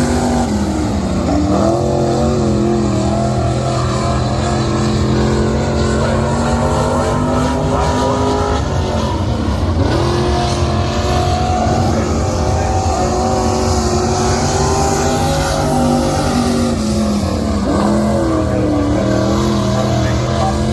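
Dirt-track modified race car engine running at speed, its pitch dropping off and climbing back about every eight seconds as it lifts and gets back on the throttle through the turns.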